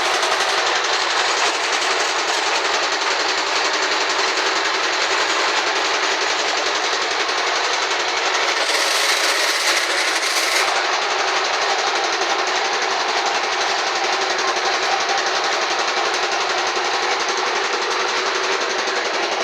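Electric arc welding: a steady, dense crackle from the arc, turning briefly brighter and hissier about nine seconds in.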